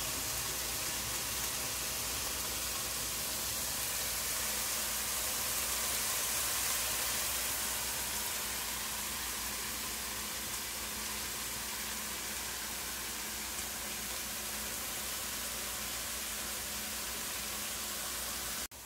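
Chopped onion and cumin seeds sizzling in hot oil in a frying pan, a steady hiss that cuts off abruptly near the end.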